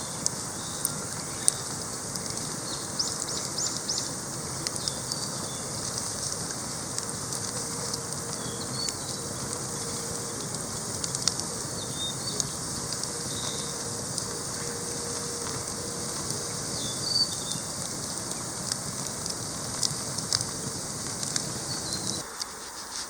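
Wood campfire burning, with frequent sharp crackles and pops over a steady rush, and small birds chirping faintly. The steady rush cuts off abruptly just before the end.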